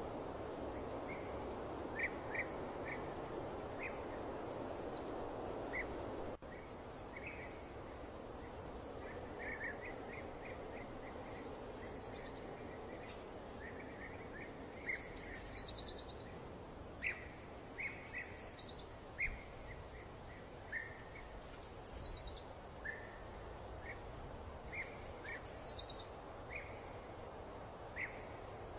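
Songbirds chirping over a steady background hiss. One bird repeats a quick, high call that falls in pitch every three to four seconds, while others give short chirps. The background changes abruptly about six seconds in.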